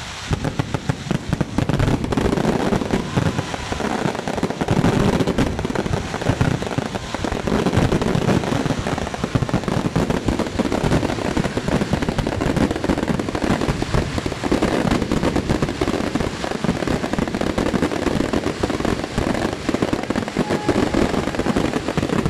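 Large fireworks display: a dense, unbroken barrage of rapid, overlapping bangs from many shells and rockets bursting at once.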